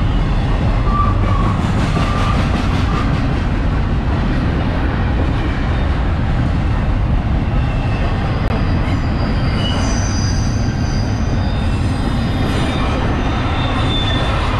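Double-stack intermodal well cars of a freight train rolling past close by: a loud, steady rumble of steel wheels on rail, with short high-pitched wheel squeals over it, the strongest about ten seconds in.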